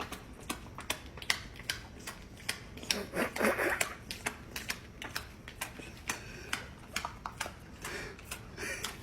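Rapid, irregular clicking and tapping, several sharp clicks a second, with a short rustling noise about three seconds in.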